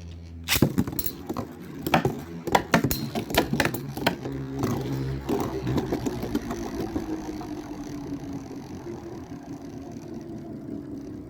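Storm Pegasis 105RF and Dark Wolf DF145FS Beyblade spinning tops clattering and clashing against each other in the stadium, with many sharp knocks over the first few seconds. The clashes then give way to a steady whir that slowly drops in pitch as the tops lose spin.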